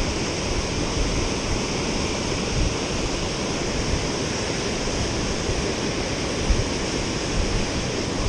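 Water pouring over a river spillway, a steady, unbroken rush.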